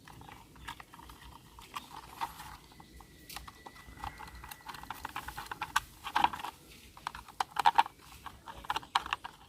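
Small screwdriver tightening screws into a toy bus: irregular light clicks and scrapes of the tool in the screw heads, coming in little clusters.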